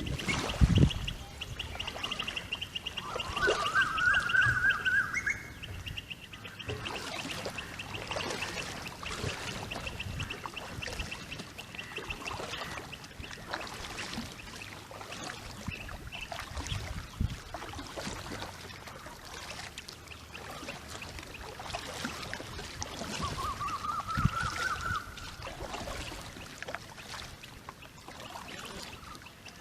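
River water burbling and splashing under a small PVC-pipe kayak, with occasional knocks. A bird gives a rising call twice, and a high, fast-pulsing trill sounds through roughly the first half.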